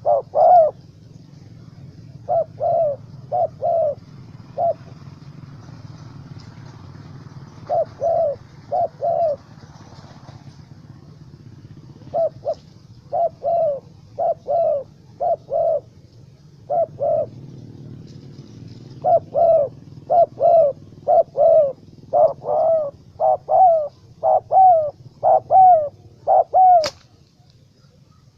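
Spotted doves cooing: short hoarse coo notes repeated in runs of two to several, with pauses between runs. A steady low rumble underneath and one sharp click near the end.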